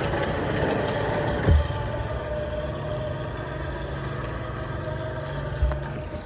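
A vehicle motor runs with a steady hum and stops near the end. Two short low thumps come about a second and a half in and just before it stops.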